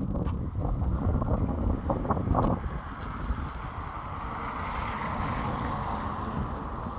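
Wind rumbling on the microphone, with a few light knocks in the first couple of seconds and a steady hiss that swells in the second half.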